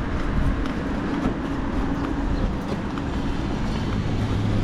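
A motor vehicle running steadily: a low rumble with a faint engine hum.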